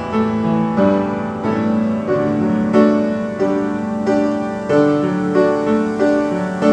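Piano playing a slow praise song in full held chords, a new chord or note struck every half second or so.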